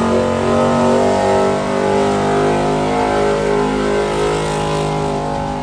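Engine of a pulling vehicle running hard at high, fairly steady revs.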